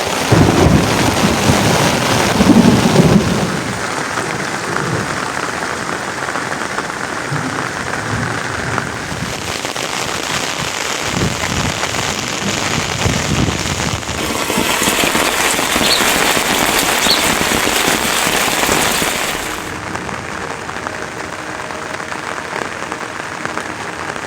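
Heavy rain falling steadily, with low rumbling in the first few seconds. The rain grows louder and hissier for several seconds past the middle, then settles back.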